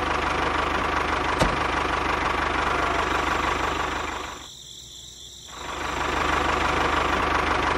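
Small engine running steadily with a fine even beat. It drops away for about a second near the middle, then picks up again.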